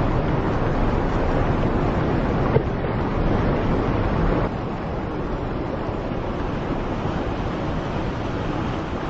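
Steady rush of surf and wind on the shore, with wind buffeting the microphone. There is a single small click about two and a half seconds in, and the sound gets a little quieter about halfway through.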